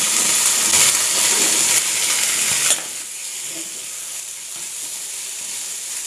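Masala-coated chicken pieces and shallots sizzling in hot ghee in a nonstick pan, stirred and scraped with a wooden spatula. The sizzle drops suddenly to a quieter hiss a little under three seconds in.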